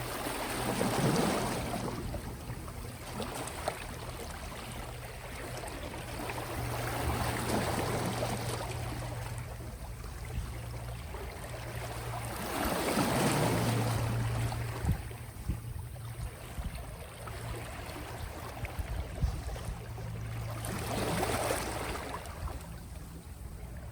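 Soft, small sea waves washing onto the shore, swelling and fading four times, one wash every six to eight seconds.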